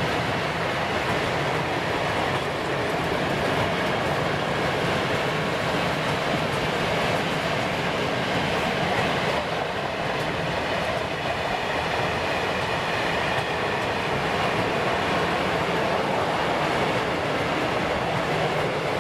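A freight train of open coal wagons rolling steadily past on a curve, a continuous rumble and clatter of wagon wheels on the rails.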